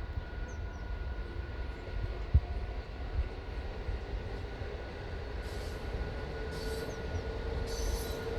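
MEMU electric multiple-unit train running, a steady low rumble with a faint constant whine. There is a single sharp thump about two seconds in, and short bursts of hiss near the end.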